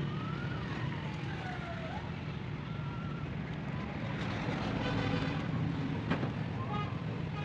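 Steady road traffic noise, with a few faint tones sliding up and down in pitch.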